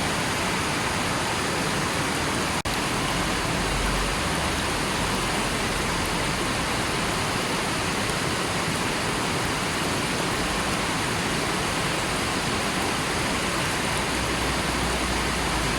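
River water rushing steadily, an even wash of sound with a split-second dropout between two and three seconds in.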